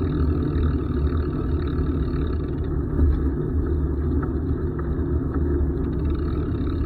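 Steady low rumble of wind buffeting the microphone during a bicycle ride, with no clear separate events.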